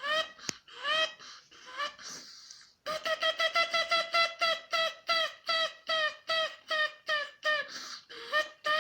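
Gull calling: a few drawn-out rising calls, then a rapid run of short, evenly spaced calls, about three or four a second, like a gull's long call.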